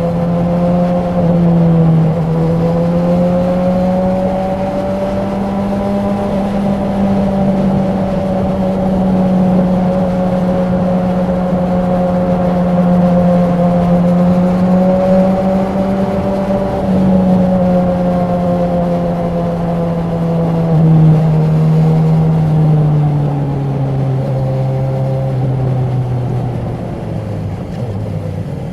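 Honda CB1000R's inline-four engine and exhaust under way, holding a fairly steady note while cruising. From about 21 seconds in, the note steps down and falls away as the bike slows.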